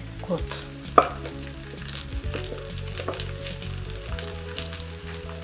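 Fried rice with mixed vegetables sizzling softly in a wok while pieces of fried beef are spooned in from a small pan. There is one sharp tap of the utensil against the pan about a second in.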